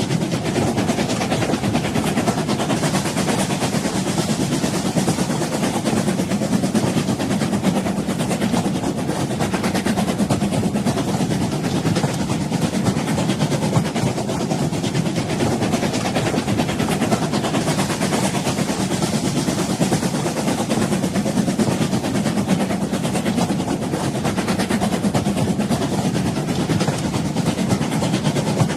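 Train running on rails: a steady rumble and rattle with no breaks.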